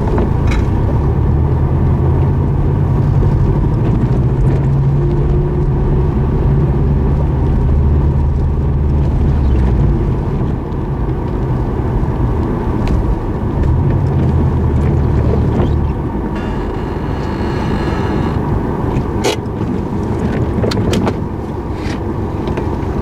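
Subaru hatchback driving slowly, engine and road noise running steadily. The low engine hum eases about ten seconds in, comes back briefly and drops again around sixteen seconds. A few sharp clicks come near the end.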